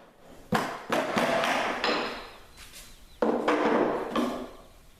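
Hammer blows knocking wooden wedges out of a strip-built kayak's forms, breaking the hot-glue joints that hold the hull. There are about four sharp strikes, two in the first second and two in the second half, each ringing briefly after the hit.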